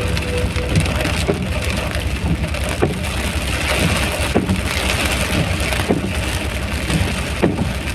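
Rain falling steadily, a continuous hiss with scattered louder drops or taps about once a second, over a strong low rumble.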